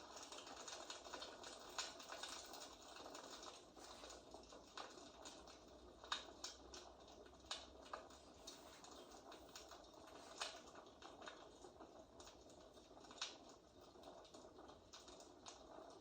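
Faint fireplace crackling: a steady soft hiss with irregular sharp pops and snaps, the louder ones scattered a few seconds apart.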